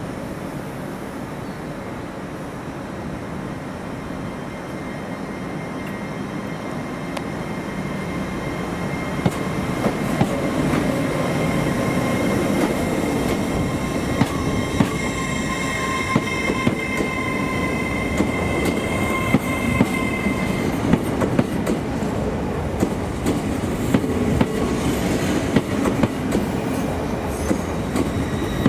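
A train running through the station, growing louder, with wheels clacking over rail joints from about a third of the way in and a high wheel squeal for several seconds in the middle.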